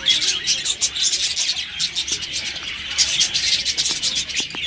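Many birds chirping in a dense, overlapping chorus of rapid high-pitched chirps.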